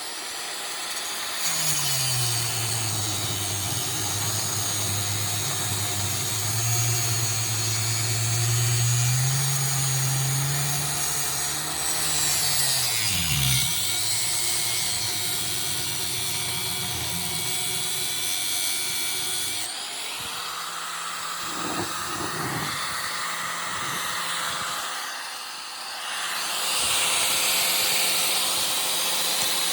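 Angle grinder running and cutting into a scrapped window air conditioner unit. Its motor note dips in pitch and recovers about halfway through, and the sound changes about two-thirds of the way in.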